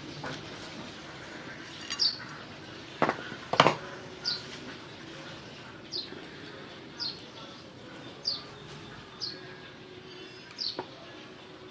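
A bird chirping over and over, a short, high, falling chirp about once a second. Two sharp knocks stand out about three seconds in.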